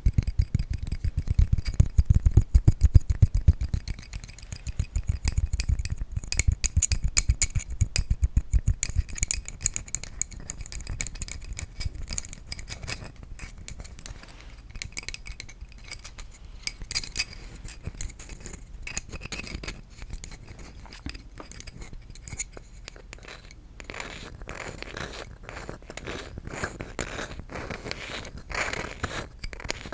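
Rapid tapping on wooden objects, many quick taps in close succession. The taps are deeper and heavier for the first nine seconds or so, then lighter and crisper.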